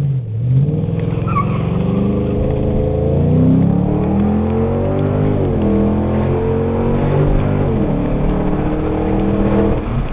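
A 2005 Mustang GT's 4.6-litre V8, heard from inside the cabin through a Borla cat-back exhaust, accelerating hard from a launch. The revs climb and drop back at each of three upshifts, then fall away as the throttle is lifted near the end.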